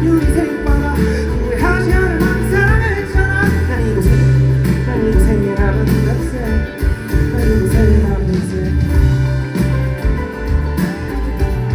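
Live band music: an instrumental passage of a pop-rock song, with guitar to the fore.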